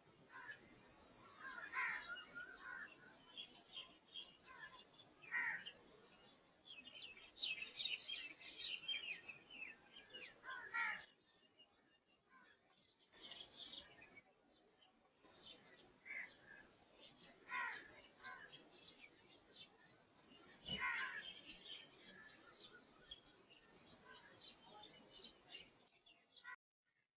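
Small birds chirping and twittering in quick, high, repeated trills, with a short lull about eleven seconds in. The sound stops abruptly near the end.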